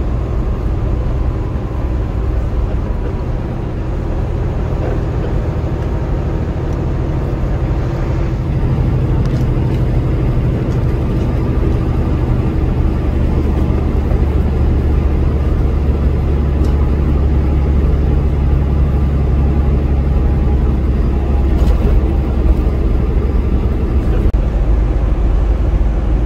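Semi truck driving at highway speed: a steady diesel engine drone with road noise, growing a little louder about eight seconds in.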